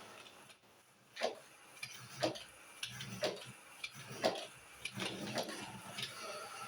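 Roomba robot vacuum knocking against a corner about once a second, its motors whirring low in between: the robot is stuck in the corner and fails to find its way back to its charging base.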